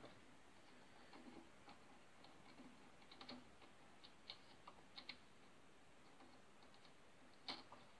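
Near silence broken by a few faint, scattered light clicks and taps, with a slightly louder click near the end.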